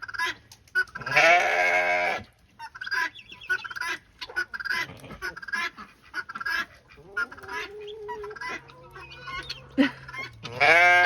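Backyard poultry calling from the coop: short repeated clucks and squawks, with a loud drawn-out honking call about a second in.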